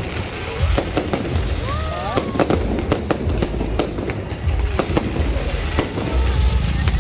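Aerial fireworks going off in rapid succession: many sharp bangs and crackles over a continuous deep rumble of booms.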